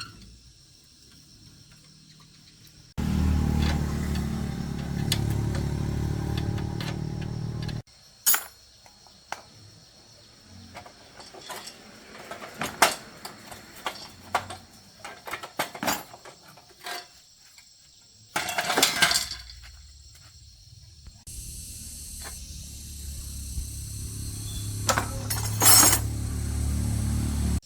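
Workshop sounds. A motor-driven machine runs steadily in two stretches that start and stop abruptly, and between them metal parts and tools clink and knock, with a short rushing burst in the middle.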